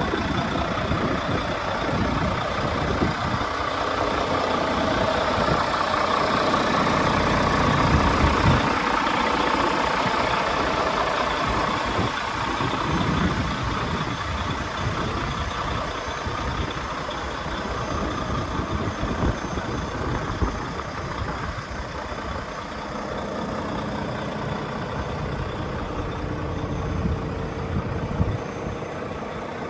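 Volvo D13 diesel engine in a semi-truck tractor idling steadily, a little louder in the first half.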